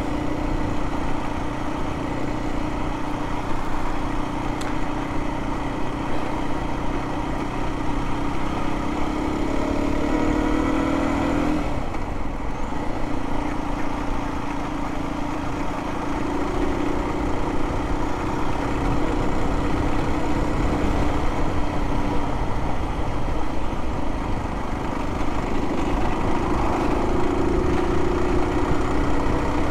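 Aprilia RS 125's single-cylinder four-stroke engine running at low speed under way. The engine note drops sharply about twelve seconds in, then picks up again, with tyre rumble over cobblestones and wind noise underneath.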